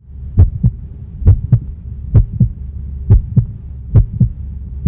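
Heartbeat sound effect: a slow lub-dub of paired low thumps, about one beat a second, over a steady low hum.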